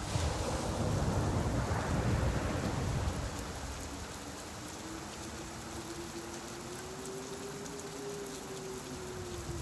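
Steady rain falling, with a deeper rushing swell over the first three seconds that then eases into an even patter.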